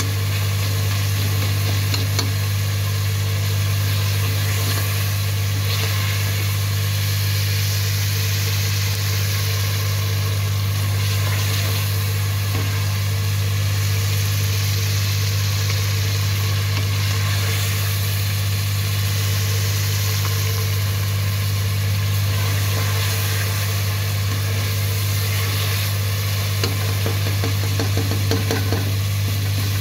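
Mutton and tomato masala frying in oil in a karahi, sizzling while a steel ladle stirs it, with faint scraping clicks. A steady low hum runs underneath.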